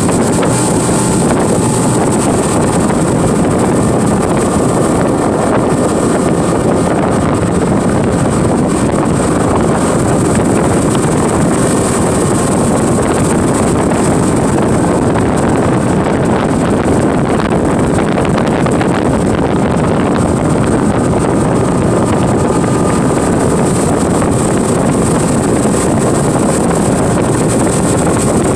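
Tour boat's engine running steadily as the boat travels, with wind buffeting the microphone.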